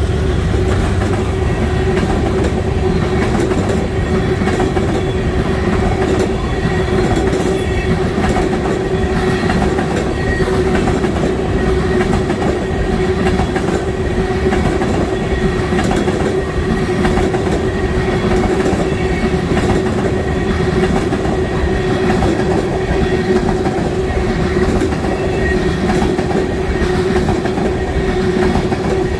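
Freight train of tank cars rolling steadily past close by: a continuous rumble of steel wheels on rail, with a steady hum and repeated clicking from the wheels.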